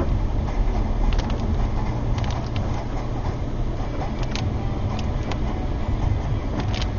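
Car driving on the road: a steady low rumble of road and engine noise, with scattered sharp ticks.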